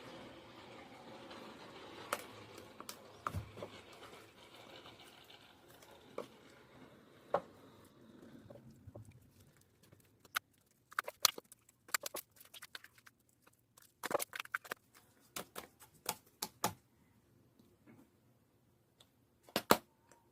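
Fluffy slime being worked by hand: a soft, sticky rustle with scattered clicks at first, then from about ten seconds in a run of sharp little pops and clicks as it is pressed and squished, with a loud double pop near the end.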